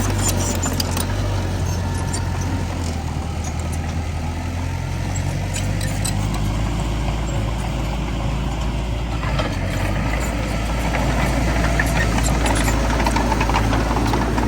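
Heavy earthmoving machine's diesel engine running with a deep, steady note, with scattered light clicks and clanks. The engine note shifts and grows a little louder about nine and a half seconds in.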